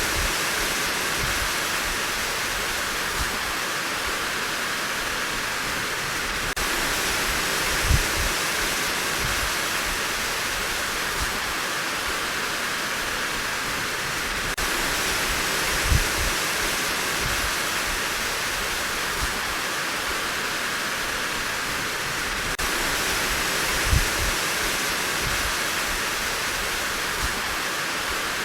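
Steady heavy rain falling, a dense even hiss, with a brief low thud about every eight seconds.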